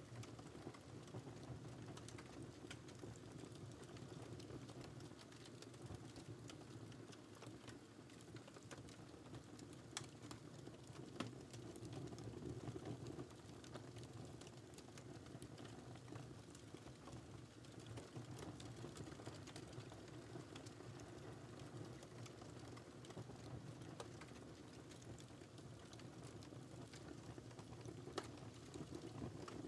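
Wood fire burning in a fireplace: faint, irregular crackles and pops over a low, steady rumble, with a couple of sharper pops.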